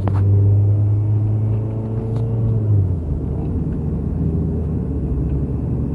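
Car engine and road rumble while driving; the steady low engine drone eases off about halfway through, leaving a rumble.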